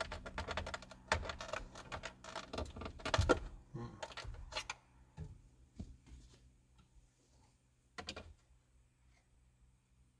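Rapid clicking and rattling of small hard parts being worked by hand at the steering column, thinning out after about five seconds, with one more sharp click about eight seconds in.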